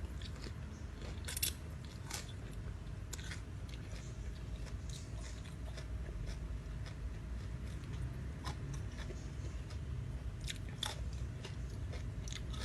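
Close-up chewing and biting of a spicy rice-noodle salad with crispy squid, with scattered crunches and wet clicks, the sharpest about a second and a half in, over a steady low hum.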